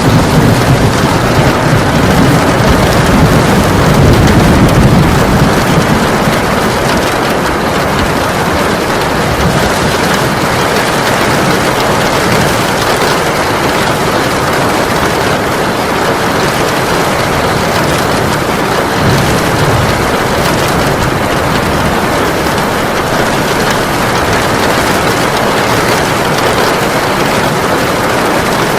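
Heavy rain pouring steadily, a dense even hiss of drops. A low rumble swells under it for the first several seconds, then fades.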